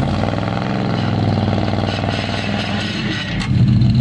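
Pickup truck engine running under load, a dense buzzing drone; about three and a half seconds in there is a short sharp knock and the engine drops back to a lower, steadier note.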